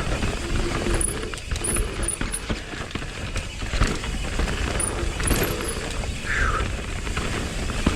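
Mountain bike running down a rough trail: tyre and wind rumble with rattles and knocks from the bike over the ground. A brief falling squeal about six seconds in, with shorter squeals earlier, comes from the Galfer Shark disc brakes: a squeak that has persisted through different pads and rotors.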